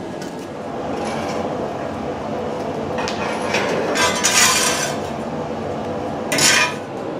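Stainless steel clinking and scraping in a few short bursts, the loudest in the middle, over a steady background roar.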